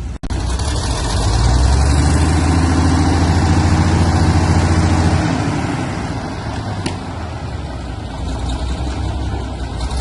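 Heavy tractor engine running hard, louder for the first half, then easing back to a steadier, lower level.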